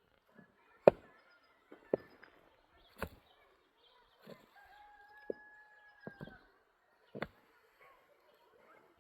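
A series of sharp knocks, roughly one a second and the first the loudest, like a tool striking stone or hard ground. A rooster crows once in the middle, one long held call.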